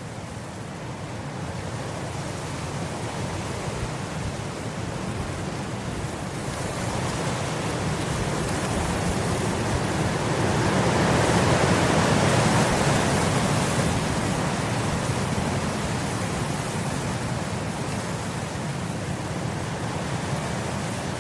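Wind blowing through grass, a steady rushing that builds to a gust about halfway through and then eases off.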